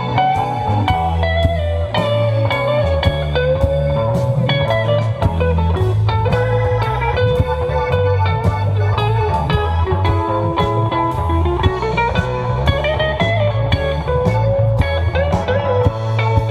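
Live band playing an instrumental passage: a lead guitar line with bending, sliding notes over a steady bass pattern and drums.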